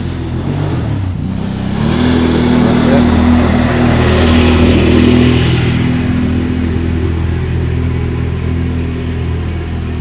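A motor vehicle's engine running, a steady low hum that grows louder about two seconds in, peaks near the middle and slowly eases off.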